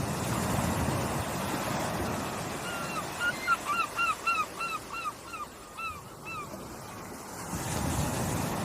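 Surf washing in, swelling again near the end. Through the middle a bird calls a run of about a dozen short, downward-hooked notes that slow toward the end of the series.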